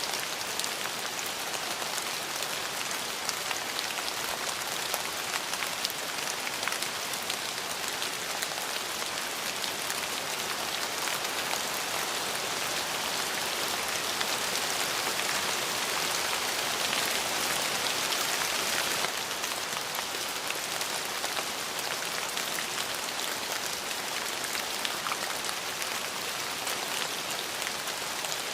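Steady rain falling, a continuous hiss flecked with the ticks of separate drops. It grows a little louder in the middle, then drops back abruptly.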